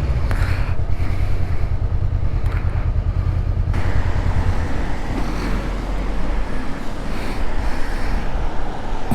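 Motorcycle engine running with a low, rapidly pulsing rumble that eases off about four to five seconds in.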